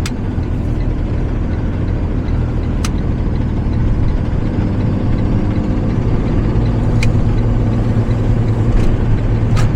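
Delivery truck engine running steadily as the truck drives, a low steady drone, with a few brief faint clicks about three seconds in, about seven seconds in and near the end.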